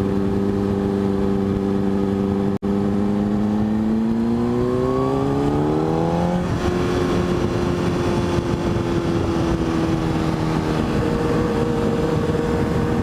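600cc motorcycle engine under way, accelerating: its pitch climbs for about three seconds, drops suddenly at a gear change about halfway through, then holds steady.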